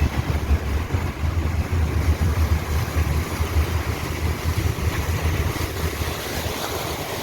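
Car driving through floodwater: a low engine and road rumble under a steady rush of water around the vehicle, the rumble easing near the end.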